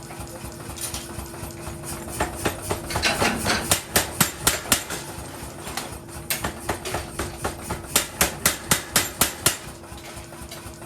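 Hammer blows on metal in two quick runs of about a dozen strikes each, roughly three to four a second, with a steady hum underneath.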